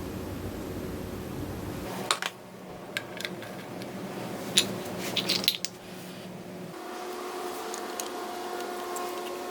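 Light metallic clicks and clinks of small metal parts and tools being handled, a few single clicks and then a quick cluster of them about halfway through, over a steady background hiss.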